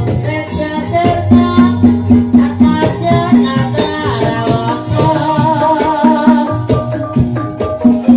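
Javanese gamelan music accompanying an ebeg dance: struck pitched metal or bamboo keys and drums play a steady rhythmic pattern. A wavering melodic line enters about five seconds in.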